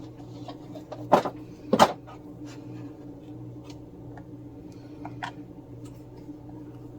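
Two sharp knocks or clacks, a little over a second in and again just before two seconds, then a few light taps and clicks, over a steady low hum.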